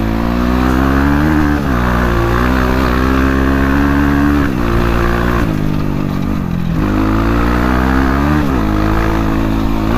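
Dirt bike engine running under way. Its note dips and climbs back several times, about four changes in throttle or gear over the stretch.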